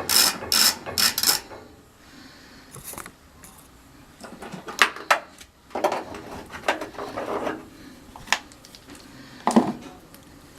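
Socket ratchet clicking in a run of short, even strokes for about the first second and a half. Then scattered metallic clinks and clatter of hand tools and small metal parts being handled.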